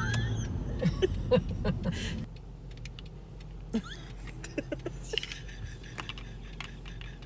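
Low rumble inside a car that drops away about two seconds in, followed by scattered light clicks and jingling of keys.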